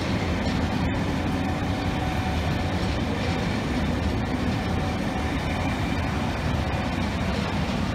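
Pullman passenger coaches rolling past on the rails at a steady pace: a continuous, even low rumble of wheels and running gear.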